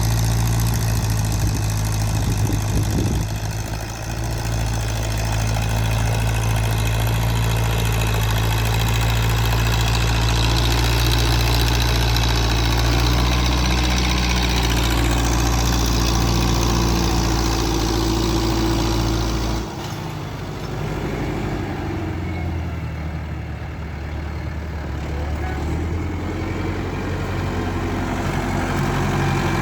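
Renault 681.4 S tractor's MWM diesel engine running steadily with a deep, even rumble. About twenty seconds in, the low rumble drops away abruptly and the engine carries on with a lighter note.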